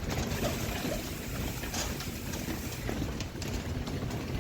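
Bicycle rolling over rough ground: a steady low rumble with scattered clicks and rattles.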